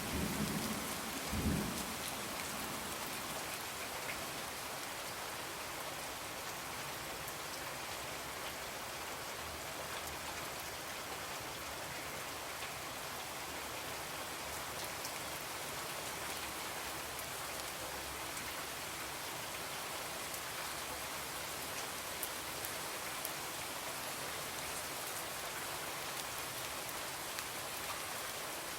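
Steady rain falling on a window, with a low rumble of thunder dying away in the first second or two.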